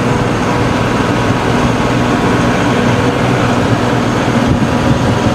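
Tractor engine running steadily under load, driving a PTO-powered rotary tiller working the soil.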